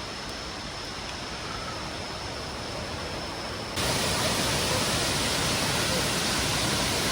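Steady rush of a mountain stream and falls, which turns abruptly louder about four seconds in. A faint steady high tone sits over the water at first.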